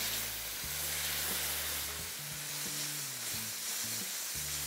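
Spiced onion-tomato masala sizzling and steaming hard in a steel kadai just after water has been poured in, while a wooden spatula stirs it: a steady hiss.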